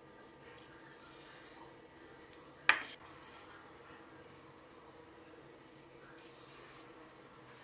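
Kitchen handling sounds: soft rubbing and rustling, with one sharp knock or clack, like a utensil or dish set down, nearly three seconds in.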